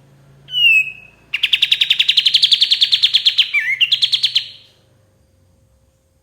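Kapas tembak bulbul singing: a short whistled note dropping in pitch, then a rapid, slightly rising chatter of about eleven notes a second lasting some three seconds, closing with a brief higher phrase.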